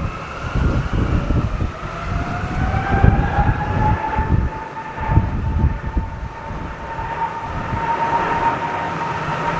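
Jet airliner engines whining, the pitch rising over the first few seconds and then holding steady as the aircraft passes. Heavy gusty wind buffets the microphone with a low rumble throughout.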